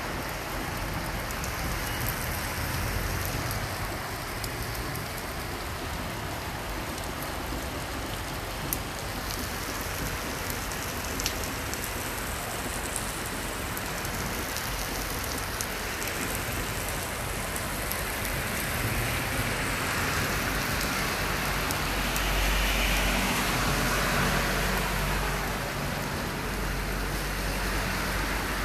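Heavy rain pouring steadily onto surfaces, with scattered sharp drop ticks. A low rumble rises under the rain for the last several seconds.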